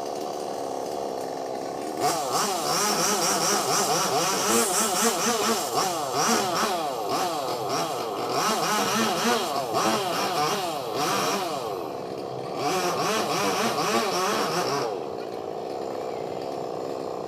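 Two-stroke chainsaw idling, then from about two seconds in running at high revs with its pitch wavering up and down under load as it cuts into wood, easing briefly near the middle. It drops back to idle about fifteen seconds in.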